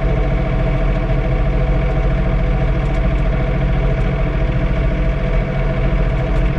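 John Deere 3046R compact tractor's diesel engine running at a steady speed, heard from inside the closed cab.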